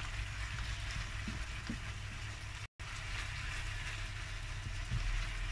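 Pieces of pork loin sizzling in a frying pan as white wine cooks off, with a silicone spatula stirring them now and then, over a steady low hum. The sound drops out completely for an instant a little under three seconds in.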